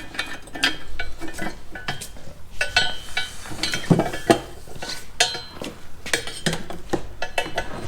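Irregular metallic clinks and clanks, several with a short ring, from stainless steel exhaust pipe pieces being handled and knocked together.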